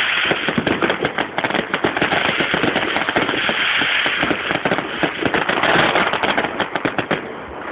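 Firecrackers going off in a dense rapid string of small bangs and crackles, thinning out near the end.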